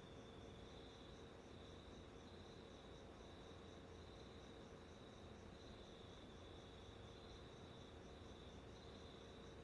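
Near silence with a faint, steady insect chirring with a fast regular pulse, over a low steady hum.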